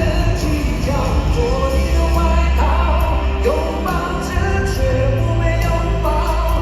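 Live rock ballad from a band with a singing voice carrying the melody over heavy, sustained bass.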